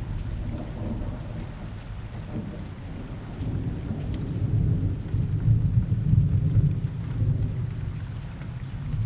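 Steady rain ambience with a low rumble of thunder that swells from about four seconds in, peaks around six seconds, and eases off toward the end.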